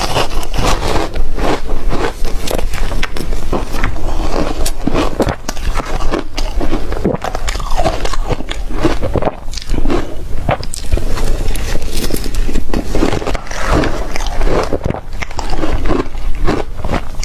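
Ice being bitten and crunched in the mouth: a steady run of many sharp crackling crunches with no pauses.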